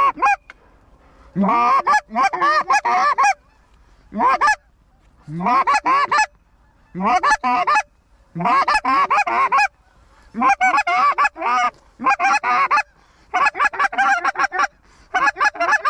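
Goose calling: a hand-blown goose call (short-reed style) run hard in about nine loud bursts of honks and rapid clucks, each about a second long. Many bursts open with a low growl that breaks upward into the honk, the calling hunters use to finish Canada geese working the decoys.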